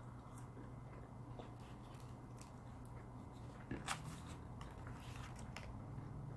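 Faint chewing and wet mouth clicks of a person eating close to the microphone, with a couple of sharper clicks about four seconds in.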